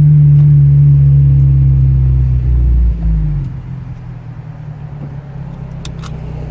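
Car with a catless downpipe and Magnaflow cat-back exhaust, its engine held at a loud, steady note for about three seconds. Around three seconds in the pitch and level drop as the revs fall, settling to a quieter, lower steady running sound.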